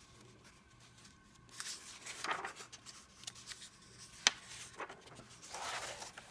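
Paper pages of a coloring book being turned and handled, a few soft rustling swishes, with one sharp tap about four seconds in.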